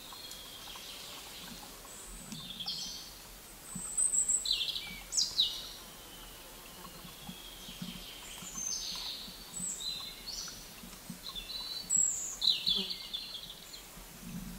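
Wild birds chirping and calling: short high notes and quick falling whistles come in clusters, loudest about four, five and twelve seconds in, over a faint steady hiss.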